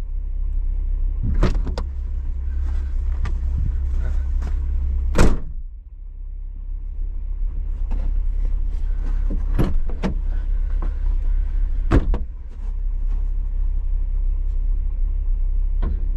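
Vehicle engine running with a steady low rumble, with several sharp knocks or clunks on top, the loudest about five and twelve seconds in.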